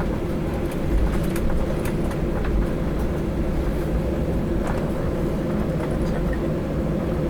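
Boeing 737-800's CFM56 turbofan engines running at steady low power, a constant rumble with a hum, with scattered light knocks and rattles.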